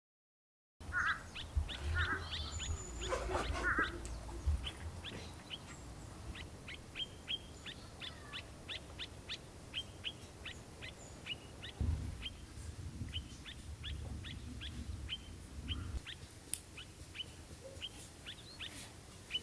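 Outdoor ambience with a small bird repeating short, sharp chirps, irregularly two or three a second, over a low rumble that is strongest in the first few seconds.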